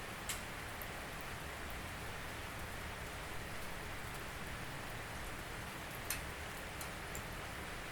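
Steady rain falling, with a few louder single drops ticking sharply, the clearest just after the start and about six seconds in.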